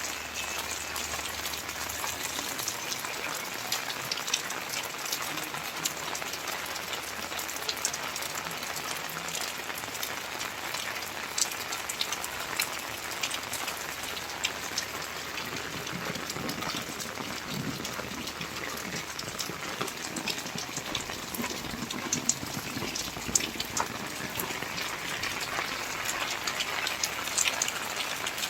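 Steady rainfall: an even hiss of rain with many sharp individual drop impacts.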